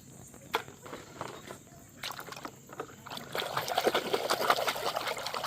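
A few light knocks, then from about three seconds in, water sloshing and trickling as toy vehicles are washed.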